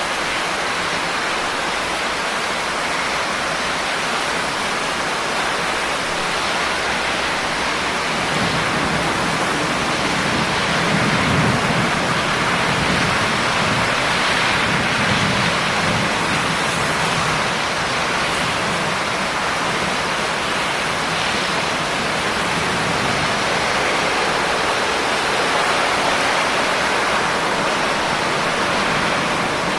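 Steady rain falling, a continuous even hiss, with a low rumble swelling up for several seconds in the middle.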